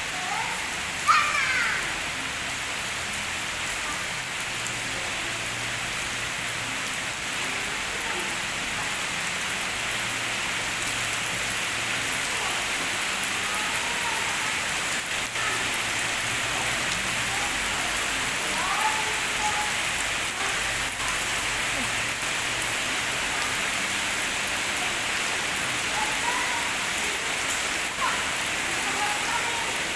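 Steady rain falling on a pond's surface, an even hiss throughout. About a second in there is a brief, louder high sound that bends in pitch, and a few faint short calls of the same kind come later.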